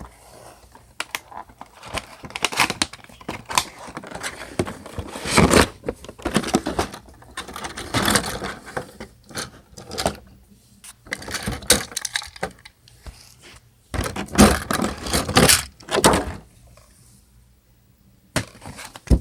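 Hard plastic toy pieces being handled and set down: irregular clicks, scrapes and rattles, with quieter gaps.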